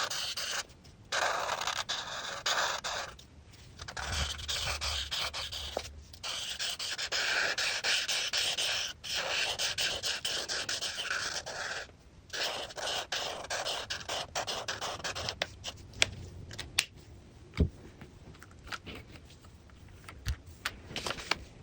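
Coloring strokes on paper: a coloring tool scratching back and forth in stretches of one to three seconds with short pauses between them. In the last few seconds the strokes are fainter and there are a few sharp taps.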